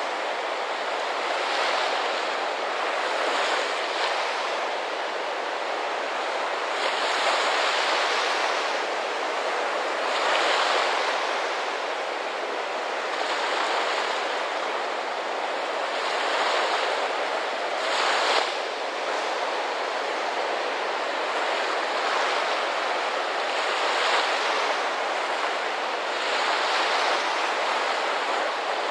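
Ocean surf: waves breaking and washing ashore in a steady rush that swells every few seconds.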